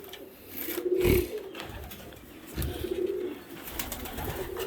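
Domestic pigeons cooing in a loft: three low, wavering coos about a second and a half to two seconds apart, with two low thumps under them.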